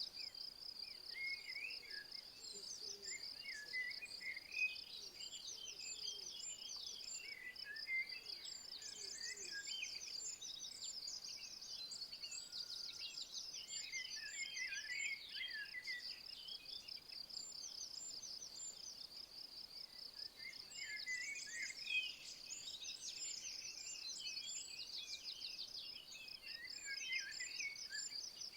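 An insect trills continuously, a rapid, even, high-pitched pulsing, while several birds chirp and sing in short phrases around it.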